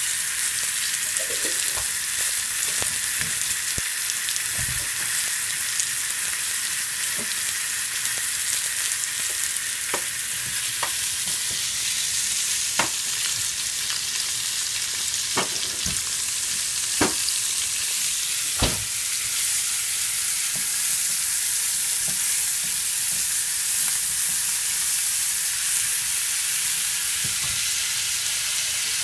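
Sliced tomatoes and green peppers frying in hot oil in a skillet: a steady sizzle, with a handful of sharp ticks about midway.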